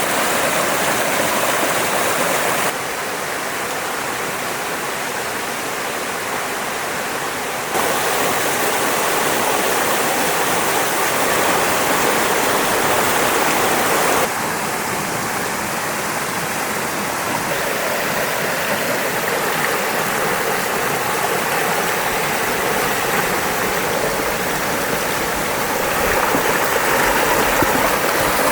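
Fast-flowing mountain stream rushing over rocks. The steady rush of water changes level abruptly several times.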